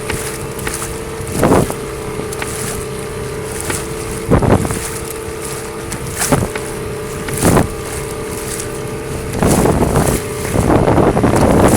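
Fishing boat's engine running with a steady hum, with short loud rushes of wind on the microphone every second or two; near the end the rushing becomes louder and continuous.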